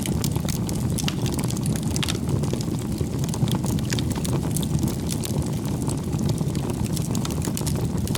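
Bonfire burning: a steady low rush of flames with frequent sharp crackles and pops from the burning wood.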